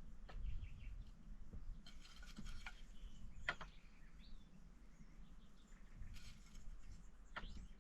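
A few short, faint scrapes and knocks, with occasional bird chirps.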